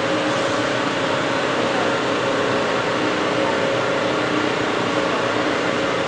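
Stirling engine generator set running steadily while it drives its alternator, a constant mechanical hum made of several steady tones over an even noise.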